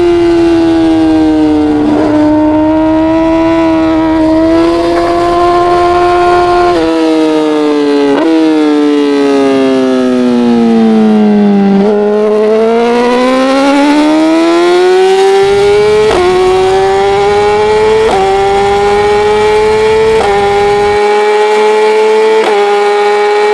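Racing motorcycle engine heard from on board, running at a fairly steady high note with brief breaks at gear changes; about halfway through the pitch falls steadily as the bike slows, then climbs again as it accelerates through the gears.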